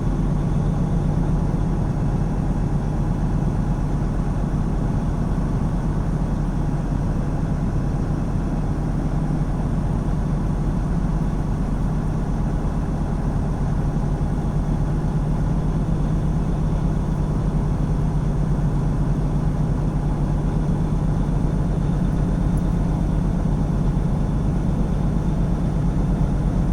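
Semi truck's diesel engine running steadily while driving, heard from inside the cab as a constant low drone with road noise.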